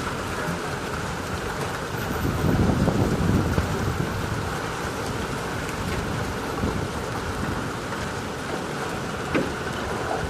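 Heavy thunderstorm downpour pouring steadily, with a louder low rumble swelling about two seconds in and fading a couple of seconds later.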